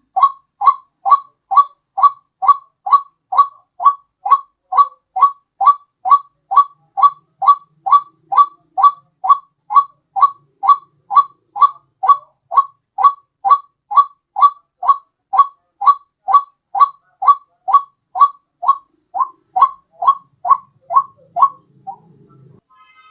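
White-breasted waterhen (ruak-ruak) call played as a bird lure: short, loud notes repeated steadily at a little over two a second, each note rising slightly in pitch. The series breaks off about a second before the end.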